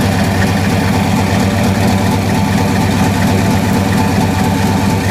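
Ford 5.0 L (302) V8 with an aftermarket camshaft, headers and a Flowmaster 40 series exhaust, idling steadily.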